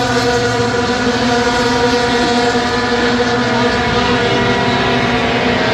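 Several sport truck race engines running hard together in a pack, a steady, loud blend of engine notes, with one pitch rising slightly near the end.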